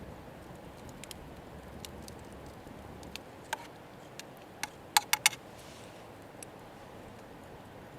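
A few sharp clicks and light clinks over a low steady hiss, the loudest a quick run of three about five seconds in.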